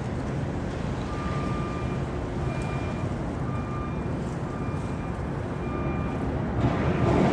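A steady low rumble with a short electronic beep repeating about once a second, starting about a second in.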